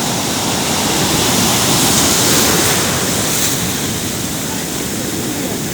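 Ocean surf washing onto a sandy beach, a steady rush of breaking waves that swells a little about halfway through, with some wind on the microphone.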